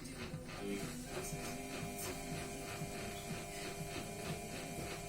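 Samsung WF-R1062 front-loading washing machine running: a steady electric motor hum, with a whine that sets in about a second in.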